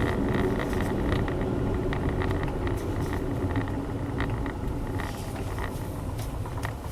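Honda Zest 4WD kei car driving, its engine and road noise a steady low rumble heard from inside the cabin, with scattered light ticks and rattles; the sound eases slightly about five seconds in.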